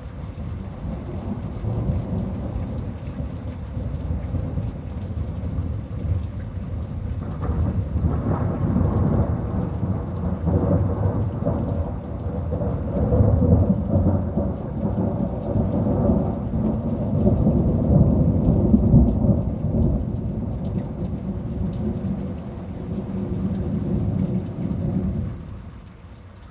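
Long peal of rolling thunder over rain: the deep rumble swells about a quarter of the way in, rolls on loudest through the middle, and dies away shortly before the end.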